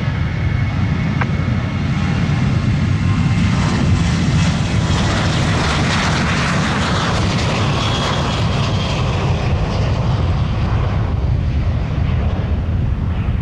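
Jet airliner engines running loud close by, with a steady deep rumble and a broad engine noise that swells about four seconds in and fades after about nine seconds.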